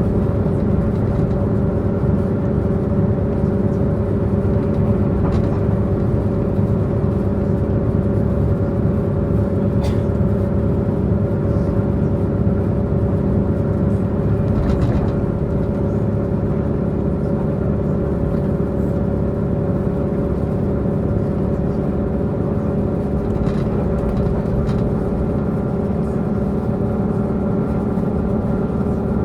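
Taiwan Railway Tze-Chiang diesel multiple unit running at speed, heard from inside the passenger car: a steady diesel engine drone with several held tones over the rumble of wheels on track.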